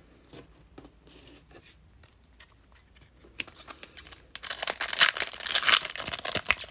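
A foil trading-card pack wrapper being torn open and crinkled by hand. A few light clicks of handled cards come first, then loud crinkling and tearing from about three and a half seconds in.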